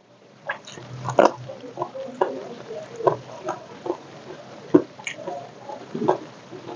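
Close-miked chewing of crispy fried egg with rice: irregular wet smacks and crackles, a few a second.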